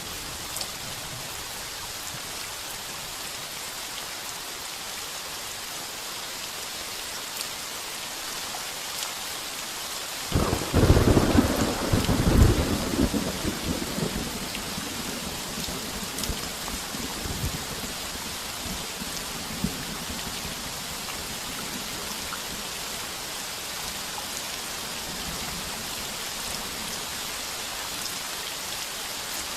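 Heavy rain falling as a steady hiss on a tin roof, with a clap of thunder about a third of the way in that rumbles loudly for a few seconds and then dies away in fainter rolls.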